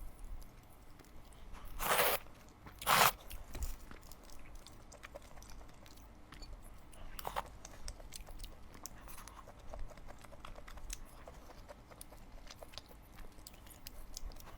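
Close-miked eating: two loud crunchy bites about two and three seconds in, then steady chewing with many small clicks.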